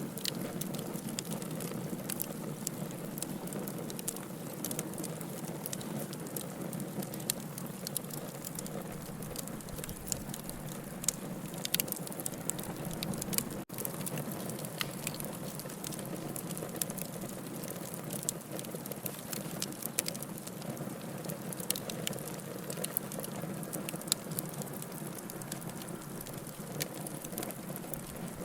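Wood campfire crackling, with frequent sharp irregular pops and snaps over a steady hiss of the burning fire.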